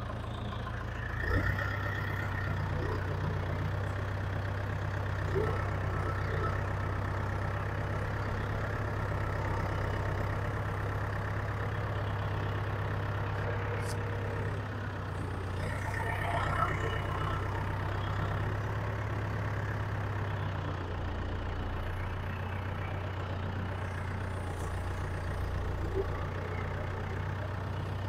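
Norwood HD36 sawmill's engine idling steadily after warming up, its note stepping up slightly about a second in and settling lower about twenty seconds in, with a few brief knocks.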